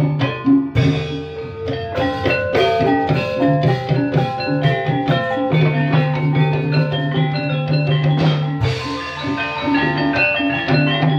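Live ebeg accompaniment music in a dangdut-style arrangement: quick runs of struck, ringing melodic notes over drums and a held bass line, played without a break.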